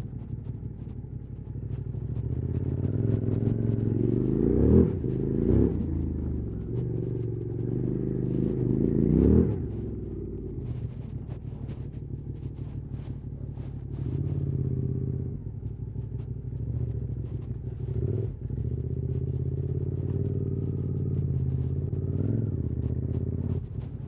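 QJ Motors SVT650X's parallel-twin engine running through an Arrow slip-on exhaust as the bike is ridden, the revs climbing twice in the first ten seconds and dropping back, then holding steadier.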